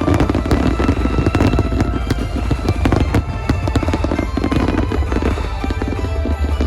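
Starmine fireworks display: a dense, unbroken barrage of shells bursting and crackling, several reports every second over a deep rumble.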